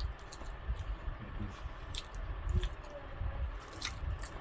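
Mouth sounds of someone chewing and biting KFC fried chicken close to the microphone: wet squishy chewing with scattered sharp clicks and smacks.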